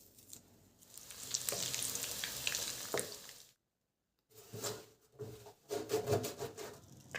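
Food sizzling as it fries in a pan, then, after a brief break, a spoon stirring and knocking against the pan several times.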